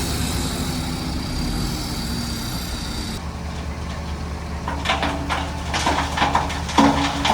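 Heavy diesel engine of earthmoving machinery running steadily, with irregular metallic knocks and clanks in the second half.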